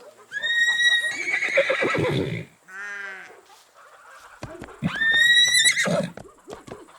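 Horse neighing twice, about four seconds apart, with a short sound between the two calls.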